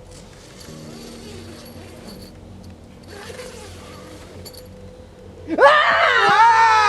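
Quiet background, then, over five seconds in, a sudden loud, high-pitched vocal scream that lasts about a second and a half, with the pitch wavering.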